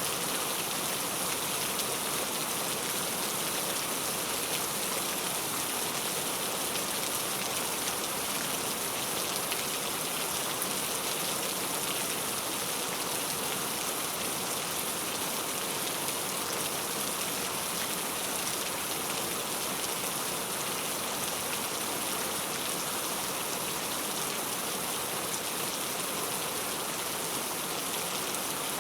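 Heavy rain falling steadily, a dense even hiss of drops on surfaces with no breaks.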